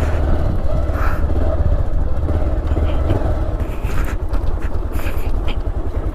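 Motorcycle running steadily at low speed over a rough gravel road, a constant low engine rumble with a few short knocks and clatters from the bumpy surface.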